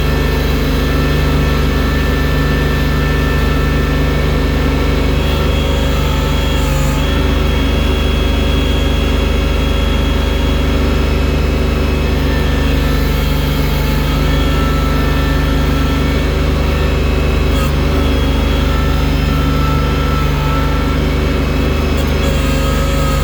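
Engine of a loader working with a bucket, running steadily under load, with small shifts in pitch as it works.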